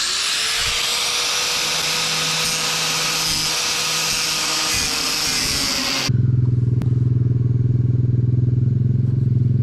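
A circular saw spins up and cuts at a stripped fender bolt with a steady, harsh hiss for about six seconds. It then stops abruptly and gives way to a louder engine idling with a fast, even pulse.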